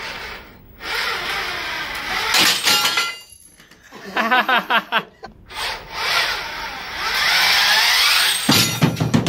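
Electric motors of a robot prototype running under power in two stretches of a few seconds each, with a mechanical clatter near the end.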